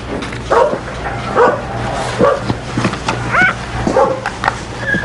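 Dogs barking over and over, in short barks about every half second, some higher-pitched than others.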